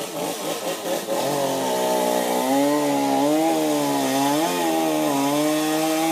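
Two-stroke chainsaw running fast, growing louder about a second in, its pitch dipping and wavering as it cuts into wood.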